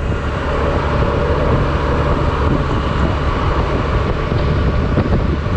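Steady wind rush on the microphone of a camera riding on a Honda Silver Wing maxi-scooter under way, with the scooter's engine and road noise running underneath.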